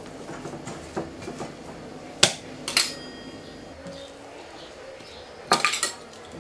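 Kitchenware clinking and knocking: two sharp knocks about half a second apart, the second with a brief ringing, then a quick rattle of clicks near the end.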